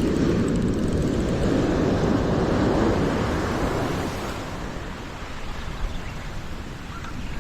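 Ocean surf breaking and washing up the beach, with wind buffeting the microphone. The wash is loudest in the first four seconds, then eases off.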